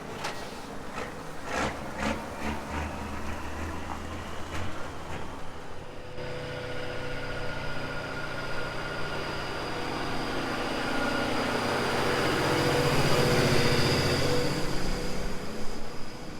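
Big-rig diesel engine running, with a few knocks early on, then growing louder to a peak about two-thirds of the way through before easing off.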